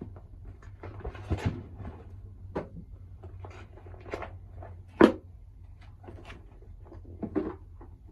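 Tarot cards and their box being handled: scattered light clicks and rustles, with one sharp knock about five seconds in, over a low steady hum.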